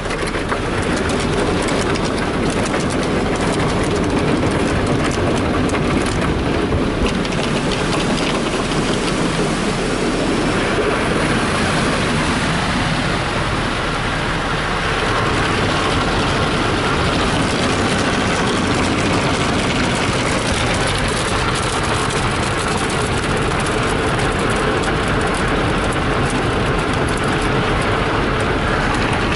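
Ryko Softgloss automatic car wash at work, heard from inside the car: the machine's brushes scrubbing and water spraying over the body in a steady, loud wash. The tone of the noise shifts about ten seconds in.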